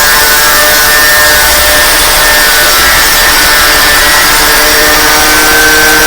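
Angle grinder fitted with a cylinder-honing stone running against the braking surface of a motorcycle brake drum as the wheel turns, giving a loud, continuous grinding with a steady high whine. This is the drum being trued to remove scoring worn in by brake shoes that were not replaced.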